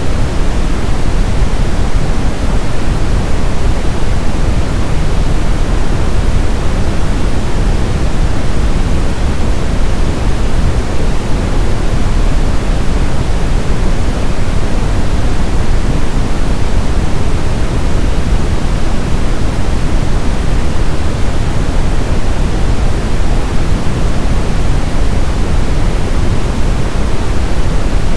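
Brown noise: a loud, steady, deep rushing hiss with its energy weighted toward the low end and no changes or events.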